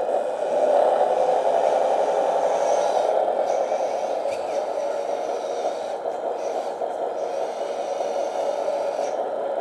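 1/18-scale Capo Tatra RC truck crawling over an obstacle at low speed with all axles locked: a steady whirring hum from its 50T brushed motor and steel-geared drivetrain, mixed with the simulated engine sound from its sound module, rising and falling a little as the throttle changes.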